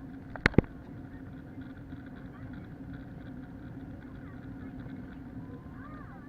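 Steady drone of an Airbus A321's engines and airflow heard inside the passenger cabin, with a constant low hum. Two sharp clicks come about half a second in.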